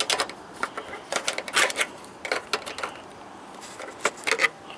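Small pliers gripping and twisting the screws on the back of an LCD monitor loose: irregular sharp metallic clicks and short scrapes, coming in several bunches.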